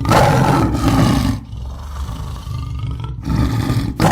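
American bison bellowing: a loud, low, roaring bellow for the first second and a half, a quieter stretch, then another bellow about three seconds in.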